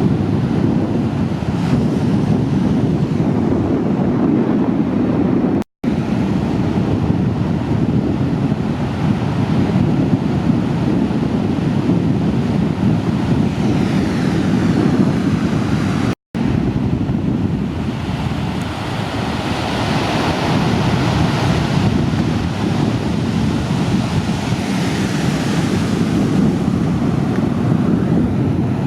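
Ocean surf from typhoon swell breaking steadily, with wind rumbling on the microphone. A brighter hiss of breaking water swells up in the later part. The sound cuts out for an instant twice, about six seconds in and just past the middle.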